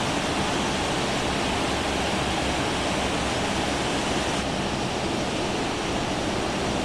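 Steady rushing hiss of an Airbus A380 cockpit during taxi: airflow from the ventilation and the engines at idle. It dulls slightly about four seconds in.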